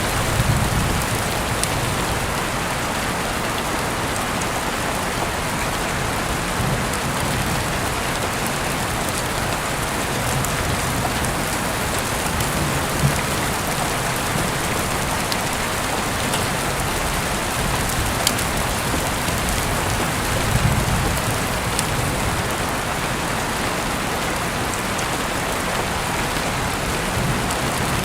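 Steady rain falling, an even hiss that holds a constant level throughout, with a few soft low rumbling swells and a couple of brief sharp ticks.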